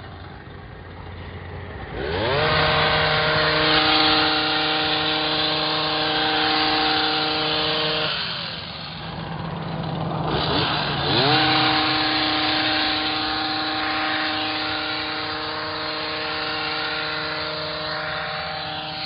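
Gas hedge trimmer's small engine revving up from idle about two seconds in and running at full throttle while cutting. It eases back around eight seconds, then revs up again about ten seconds in and holds high speed.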